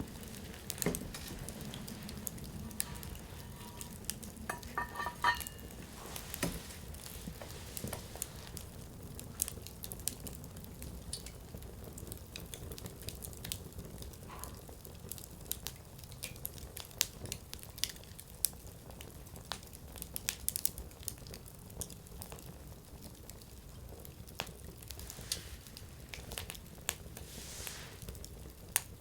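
Firewood burning in a Coleman Fire Disc: a steady low hiss of flames with irregular sharp crackles and pops of the wood throughout.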